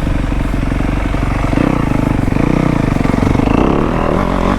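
Dirt bike engine running under throttle on a trail ride, the revs rising and falling, with a rise about one and a half seconds in and another near the end.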